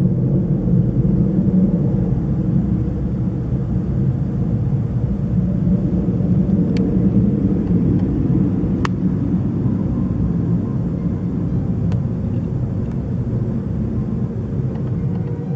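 Loud, steady low rumbling drone of the kind recorded as an unexplained 'noise in the sky', with a faint hum in it and a few light ticks.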